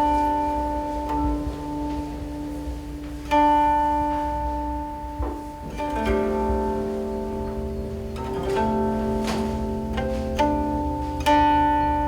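Guqin, the seven-string Chinese zither, played solo: single plucked notes and a few chords ring out and fade slowly, with long sustained tones between fresh plucks.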